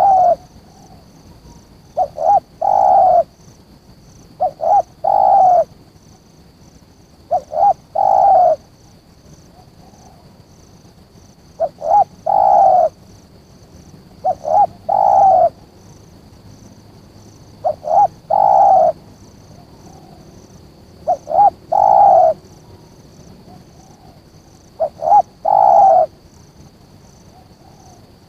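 Spotted dove (tekukur) cooing: a repeated phrase of two short notes and a longer, slightly falling coo, about eight times, every three seconds or so. A faint steady high whine sounds throughout.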